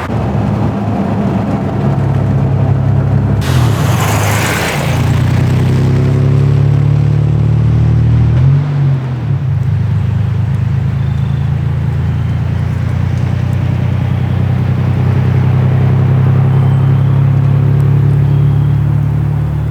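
First-generation Toyota Tacoma's engine running steadily while driving up a mountain road. About eight seconds in the engine note dips and climbs again, like a gear change. A brief rush of noise comes about four seconds in.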